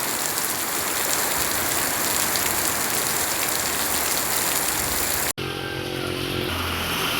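Heavy rain pouring down steadily as a dense hiss. About five seconds in, the sound cuts off abruptly and comes back as softer rain under a low steady hum.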